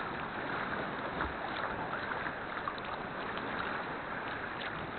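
Sea kayak being paddled: a steady wash of water with scattered small splashes from the paddle strokes.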